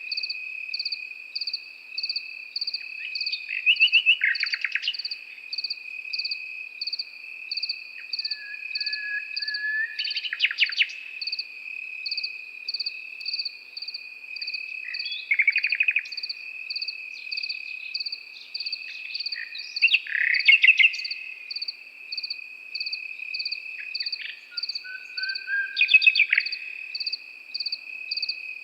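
Nightingale singing loud phrases of rapid, rattling notes about every five seconds, some opening with a short low whistle, over crickets: one giving a steady unbroken trill, another a regular pulsing chirp.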